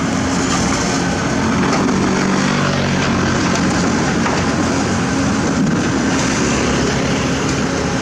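Heavy construction machinery, most likely an excavator's diesel engine, running steadily with a constant droning hum and machine noise.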